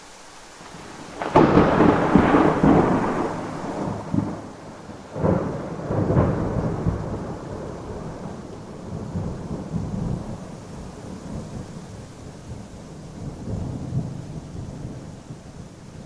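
Thunderstorm with steady rain. A sharp thunderclap about a second in rolls into a long low rumble, two more cracks follow around five and six seconds in, and the thunder then fades into slow rumbling under the rain.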